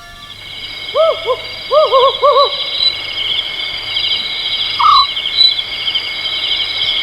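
Bird ambience: continuous rapid high chirping, with a run of short hooting calls between about one and two and a half seconds in and one more near five seconds.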